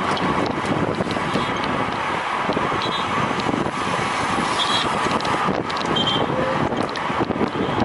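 Steady wind rush buffeting the microphone of a camera carried by a road cyclist riding at speed, mixed with road and tyre noise.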